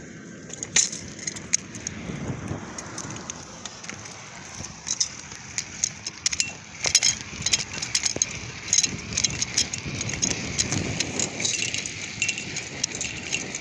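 Loose metal gear clinking and rattling in a moving fire engine, in irregular sharp jingles over a steady low rumble of the truck on the road.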